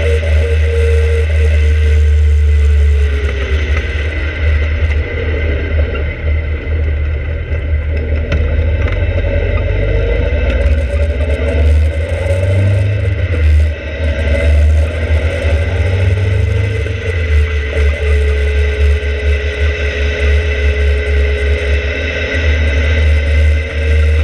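Open-cockpit sports car engine running hard on a race track, its note falling and rising with throttle and gear changes, with heavy wind buffeting on the microphone.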